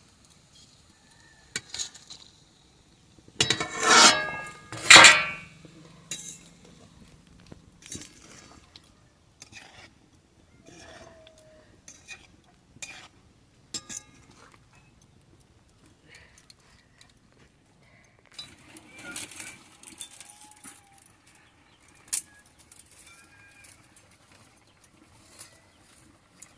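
Metal dishes and utensils clinking and knocking, with two louder ringing clangs about four and five seconds in.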